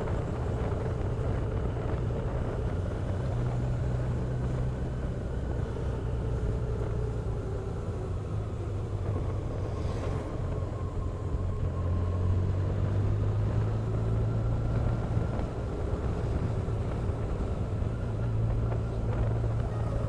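Motorcycle engine running while riding along, its note steady with a slight dip and rise in revs, over rushing wind noise on the microphone.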